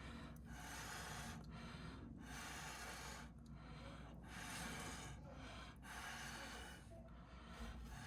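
A person blowing hard by mouth onto wet acrylic paint to push out a bloom: a string of about seven breathy puffs, each under a second, with short intakes between them.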